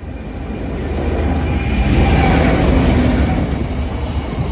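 Class 69 diesel freight locomotive passing close by, its rumble and engine note building to a peak about two seconds in and staying loud.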